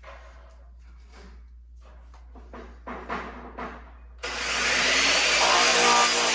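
Light knocks and handling sounds, then about four seconds in a power tool switches on abruptly and runs loudly and steadily.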